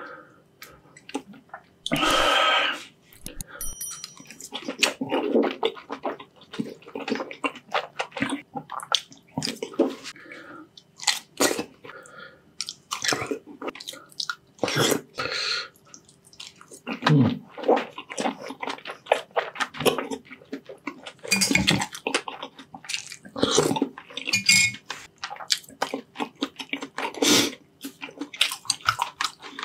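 Close-miked wet chewing and slurping of balut eggs in chili sauce, a steady run of irregular smacking mouth sounds, with one louder, longer sound lasting about a second around two seconds in.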